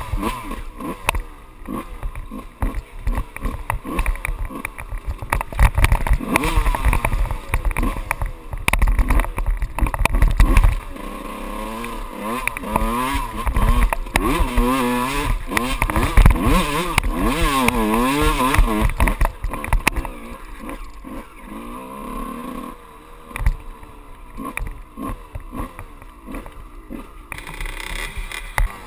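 Kawasaki KX125 two-stroke single-cylinder dirt bike engine revving up and down while being ridden over rough ground, with knocks and thumps from the terrain in the first half. From about the middle the revs rise and fall in quick repeated sweeps, then settle lower near the end.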